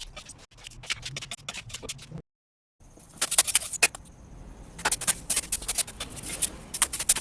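Rapid scraping and scratching made of many short clicks close together. About two seconds in it cuts briefly to silence, and it is louder afterwards.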